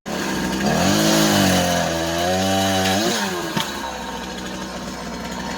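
Two-stroke chainsaw engine revving: the pitch rises and falls, holds high for about a second, then drops back about three seconds in to a lower, steady running note.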